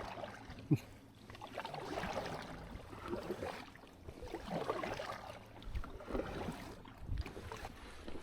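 Water sloshing and swishing around a kayak in irregular surges, with a couple of low bumps near the end.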